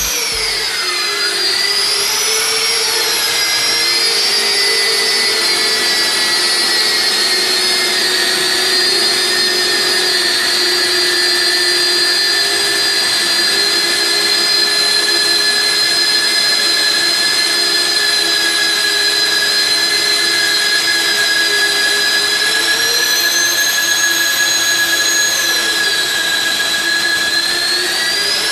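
Magnetic drill's electric motor running with a loud, steady high whine. Its pitch drops about a second in, as a motor does when it comes under cutting load, and rises again near the end, with one brief dip and recovery in between.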